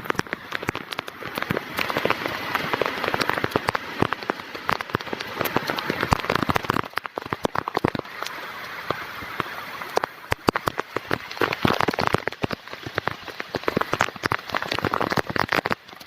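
Heavy rain falling steadily, with a constant hiss and many sharp, individual raindrop hits close by.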